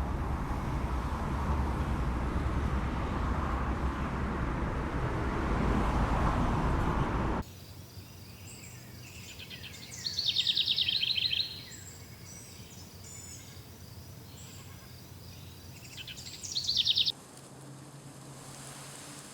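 Steady traffic noise, then a sudden cut to birdsong with two loud trilling phrases. Near the end it cuts to a quieter hiss with a faint, high, steady tone.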